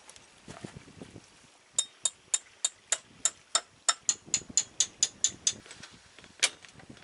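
Hammer striking a metal tent peg into the ground: a quick run of about fifteen sharp, ringing metallic blows, three or four a second, then one more blow near the end.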